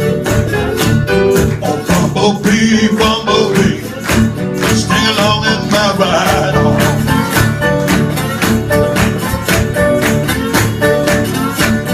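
Live band playing an instrumental passage: guitar over a steady, evenly spaced drum beat.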